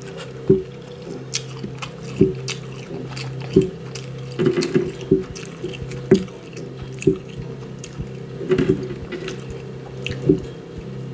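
Close-up wet chewing and lip-smacking, irregular short smacks about once or twice a second, over a steady low hum.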